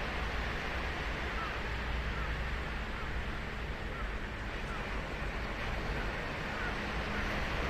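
Ocean surf breaking and washing onto a beach: a steady, even wash of noise with a low rumble beneath it.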